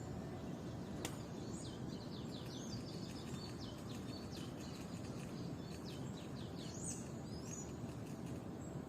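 Small birds chirping in quick runs of short high notes, with a few rising and falling whistles near the end, over a steady low background rumble. A single sharp click about a second in.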